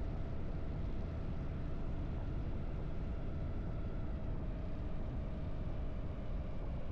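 Harley-Davidson V-twin motorcycle engine running at a steady cruising pace under way, a deep, even rumble with no revving up or down.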